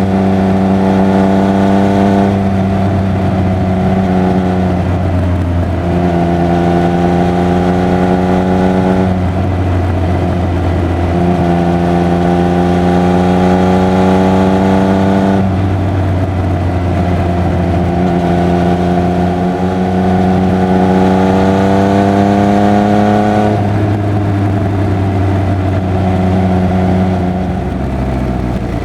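Triumph Speed Triple 1200 RR's inline-three engine and exhaust pulling under load, its pitch climbing slowly through several drawn-out pulls, each broken off briefly before the next, over steady wind and road rumble.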